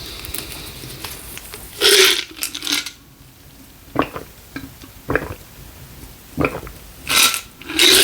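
Close-miked eating sounds: a string of short smacks and noisy bursts, starting about two seconds in.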